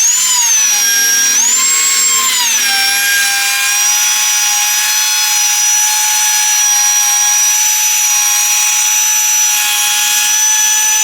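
Router spinning a flush-trim bit with a bearing guide, a loud steady high whine as it trims the edge of a stapled panel. Its pitch rises briefly twice in the first three seconds, then holds steady.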